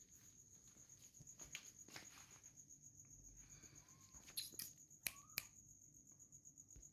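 Near silence: a faint, steady, high-pitched pulsing whine throughout, with a few soft sharp clicks about four to five and a half seconds in.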